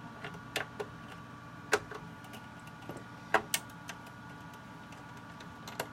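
Scattered sharp clicks and taps of a screwdriver and hands working on the plastic casing of an Xbox One console, over a steady electrical hum.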